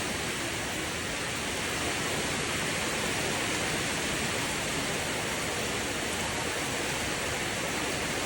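Steady rain falling, an even, continuous hiss with no separate drops or thunder standing out.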